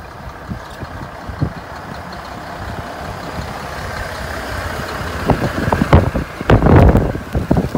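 Blizzard wind blowing hard and building, then strong gusts buffeting the microphone in loud, irregular rumbles over the last few seconds.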